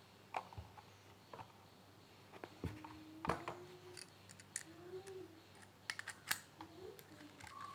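Scattered light clicks and taps, as of small hard objects being handled, with a few faint short squeaks.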